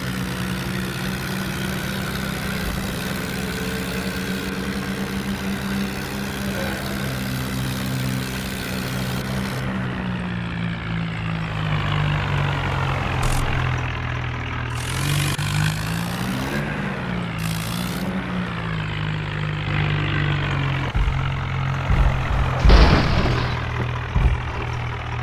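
New Holland tractor's diesel engine running steadily, its pitch rising and falling briefly a few times past the middle. A loud thump comes near the end.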